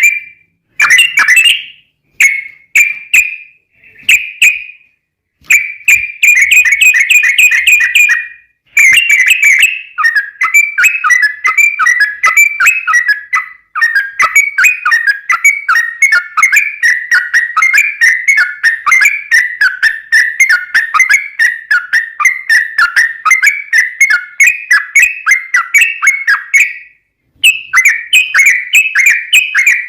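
Yellow-vented bulbul (trucukan) singing a loud, bubbly, rapid chatter of short notes. It comes in short bursts for the first several seconds, then runs into a long unbroken rapid sequence with a brief pause near the end.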